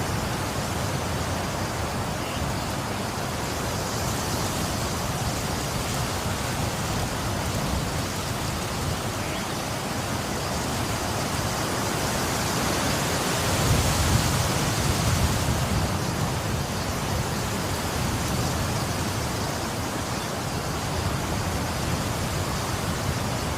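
Steady rainfall, an even hiss of falling rain, swelling louder and deeper for a few seconds a little past the middle.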